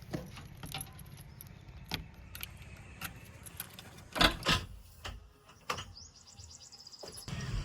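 A low engine rumble with scattered metallic clinks, two loud knocks about four seconds in, then a rapid high chirping toward the end.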